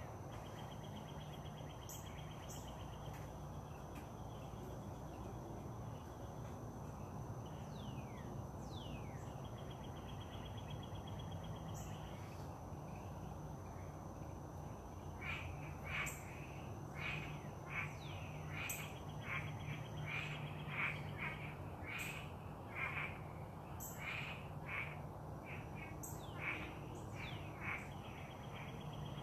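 Wild birds calling outdoors: a couple of falling whistles, then many short repeated calls through the second half, over a steady low background hum.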